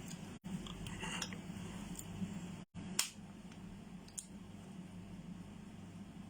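A few light clicks and taps of kitchen handling over a steady low hum; the sharpest click comes about three seconds in. The sound cuts out completely for an instant twice.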